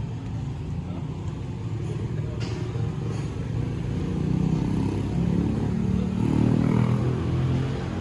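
Car engine running steadily, growing louder and rising slightly in pitch for a few seconds past the middle, then easing off near the end.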